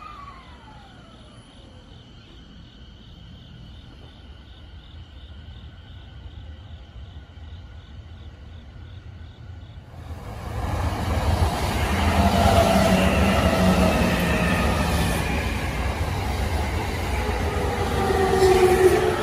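Electric commuter train pulling into the station and braking, loud from about ten seconds in: its motor whine slides slowly down in pitch over a heavy rumble of wheels on rail. Before that the sound is much quieter, with a faint, steady rapid chirping and a short falling tone at the very start.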